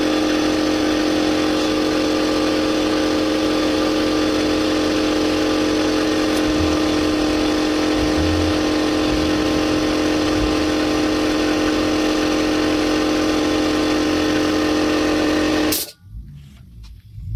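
A loud, steady machine hum with one strong pitch, unchanging throughout, that cuts off suddenly near the end and leaves only faint clicks.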